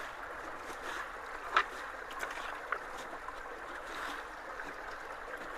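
Water of a small stream running steadily, with a couple of brief sharper splashes about a second and a half in and near the three-second mark.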